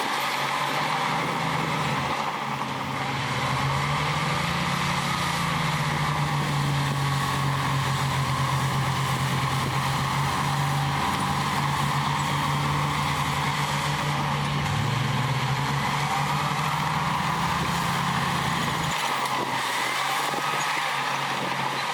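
Heavy diesel engine of earthmoving equipment running steadily under work, its pitch stepping up and down a little.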